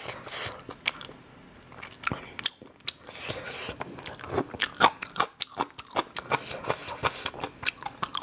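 Close-up chewing and biting of crunchy food, with many sharp, irregular crunching clicks.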